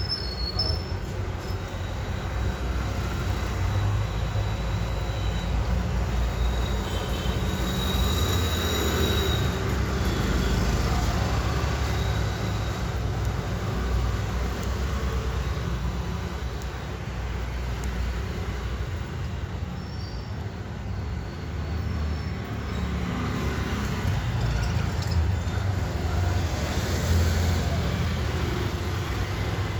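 Steady low rumbling noise, with a few short, high chirps from budgies scattered through it.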